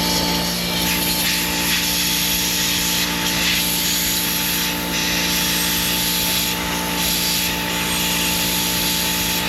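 Troy-Bilt pressure washer's small gas engine running at a steady speed, with a continuous hiss over the engine hum.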